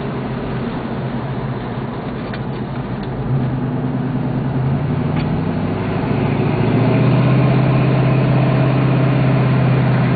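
1966 Ford Mustang's 289 small-block V8 heard from inside the cabin while driving, the engine pulling harder about three seconds in and again around six seconds, rising in pitch and loudness, then holding steady.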